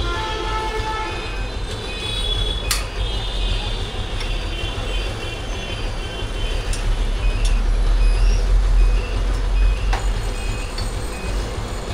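Busy road traffic: a steady heavy low rumble of passing vehicles with short high tones and a few clicks over it.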